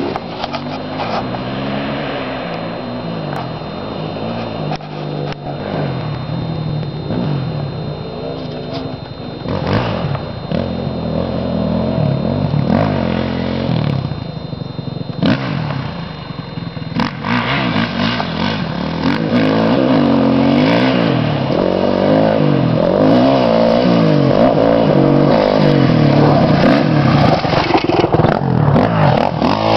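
Dirt bike engine being ridden hard, its revs rising and falling again and again with the throttle. It grows louder past the middle of the stretch.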